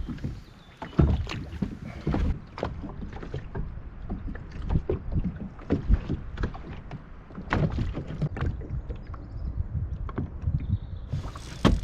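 Irregular knocks and bumps in a small rotomoulded plastic boat over a steady low rumble.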